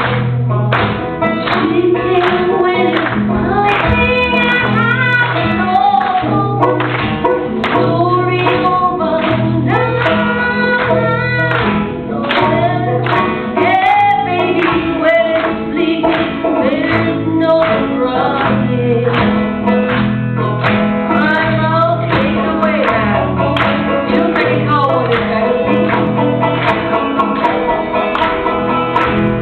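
A song sung to strummed acoustic guitar, with a steady repeating bass line underneath.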